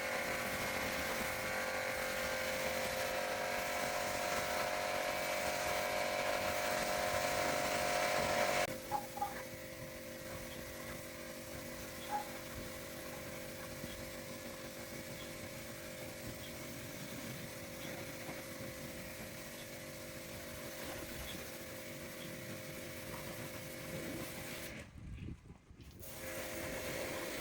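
A small electric motor running at a steady pitch, cutting off suddenly about nine seconds in, followed by a low background with a few light clicks.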